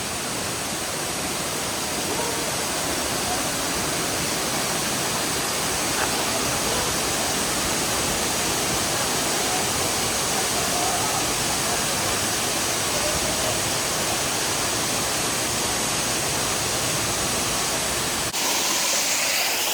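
Waterfall pouring and splashing into its pool: a steady, dense rush of water that holds level throughout.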